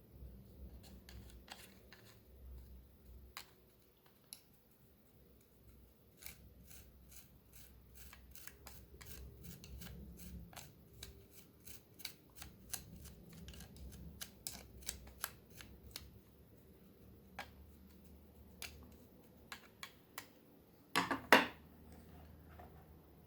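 Irregular small, sharp clicks and taps from hands working on a plastic hair clipper during repair, quickening to about three or four a second in the middle, with a louder clatter near the end.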